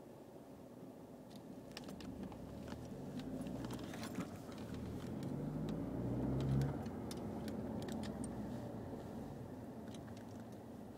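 Audi A4 2.0T FSI turbocharged engine revving, its pitch rising for several seconds to a peak about six and a half seconds in, then dropping off sharply. Scattered sharp clicks over the first half and again near the end.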